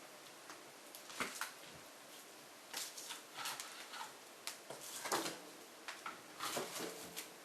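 Hardwood logs burning in an open-fronted Jøtul F500 cast-iron wood stove, crackling and popping irregularly over a faint hiss.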